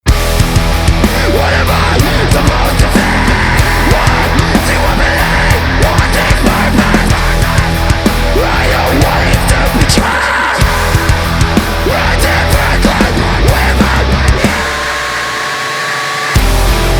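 Heavy rock band music playing: drums and distorted guitar with no vocals yet. Near the end the low end drops out briefly, leaving a held tone, then the full band comes back in.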